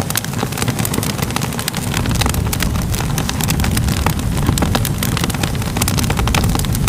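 Wood fire crackling, with many sharp pops and snaps over a steady low rumble of burning.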